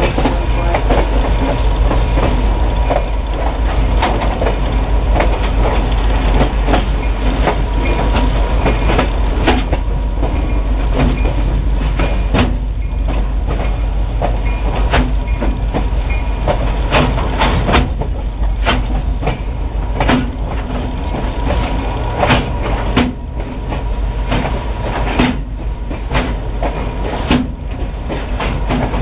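Passenger train rolling along the track: a steady rumble of the coach with irregular clicks and knocks from the wheels over the rail joints, and a thin steady tone underneath.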